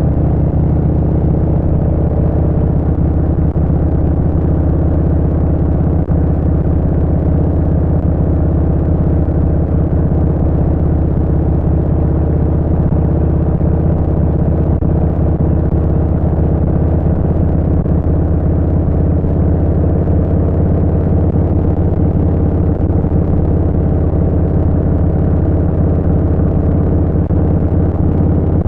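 Harley-Davidson Street Bob 114's Milwaukee-Eight 114 V-twin running through a Vance & Hines Short Shots full exhaust, holding a steady engine speed while cruising.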